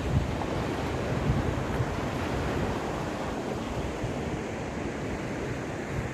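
Caspian Sea waves washing onto the shore in a steady surf, with wind buffeting the microphone and adding a low rumble.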